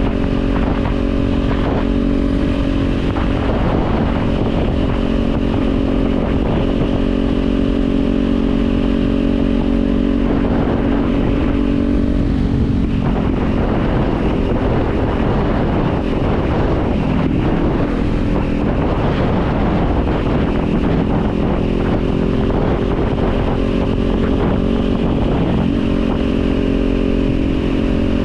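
Kawasaki Z400's parallel-twin engine running at a steady note, then from about halfway through its pitch rises and falls as the revs change, settling back to a steady note near the end.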